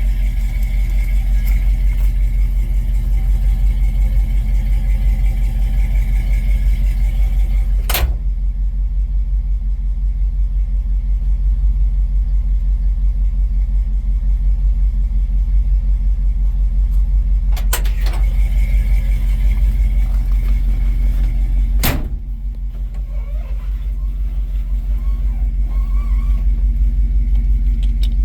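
1973 International Harvester Scout II engine idling steadily on the choke as it warms up after a cold start. Three sharp knocks break in, at about eight seconds, eighteen seconds and twenty-two seconds.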